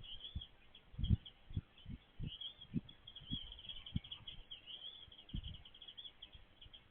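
Small birds chirping, with a fast run of high repeated notes in the middle, over irregular dull low thumps.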